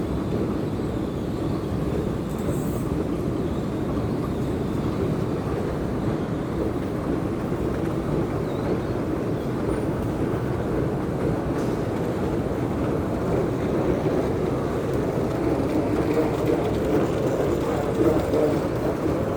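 Airport moving walkway running under a rider: a steady low rumble.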